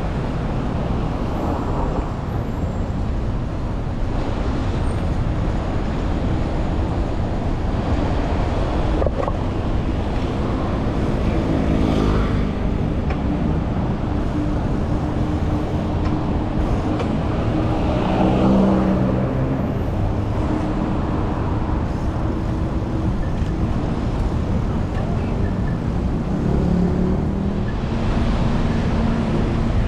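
City street traffic heard from a bicycle: a steady rumble of motor vehicles, with engines of passing vehicles swelling louder about a third of the way in, again past the middle, and near the end.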